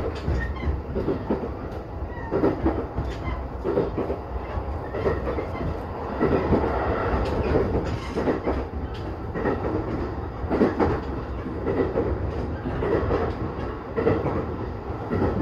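Electric commuter train running along the line, heard from inside the passenger car: a steady low rumble with repeated clacks of the wheels over the rail joints.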